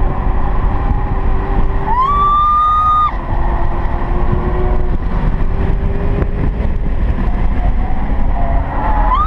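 Cadillac CTS-V's V8 engine running hard at track speed, a steady loud drone. About two seconds in, a high squeal rises sharply and holds for about a second.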